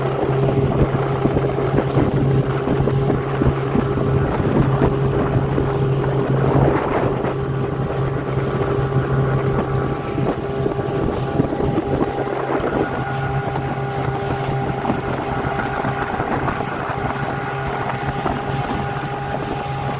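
A motor running steadily with a constant hum, and wind rushing across the microphone throughout.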